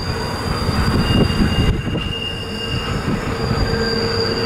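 Intermodal container train rolling past, its cars giving a dense, uneven rumble with a steady high-pitched wheel squeal over it.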